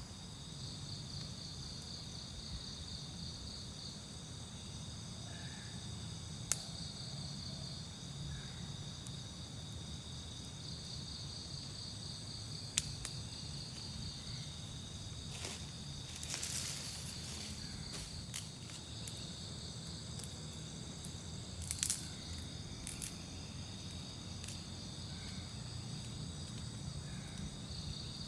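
Night chorus of crickets and other insects: steady high-pitched trilling with pulsed trills that stop and start, over a low steady rumble. A few sharp clicks and a short rustle break in around the middle.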